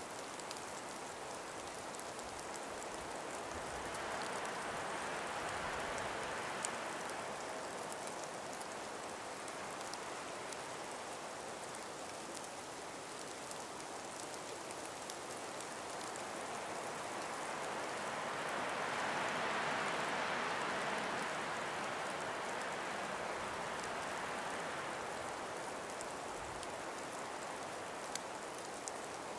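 A calm breeze moving through ice- and snow-laden forest trees: a soft, steady hiss that swells twice, about five seconds in and again around twenty seconds, with faint scattered ticks.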